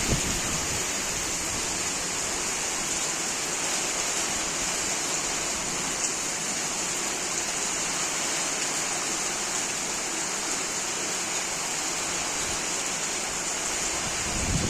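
Heavy rain pouring down, a steady even rush of falling and running water.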